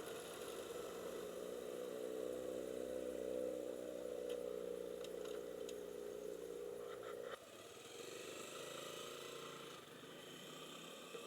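Motorcycle engine running steadily, with a few faint clicks; about seven seconds in the sound drops suddenly to a quieter, steady engine hum.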